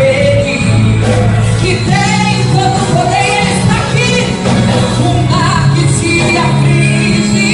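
A woman singing a Portuguese-language song with sustained, bending notes over instrumental backing with steady held bass notes.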